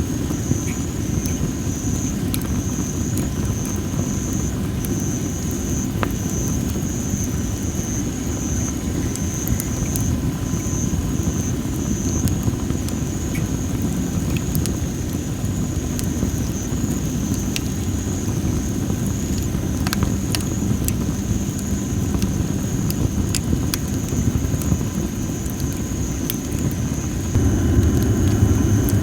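Well-dried masaki (Japanese spindle tree) firewood burning, with scattered sharp crackles and pops over a steady low rumble that grows louder near the end. A steady high-pitched buzz runs underneath.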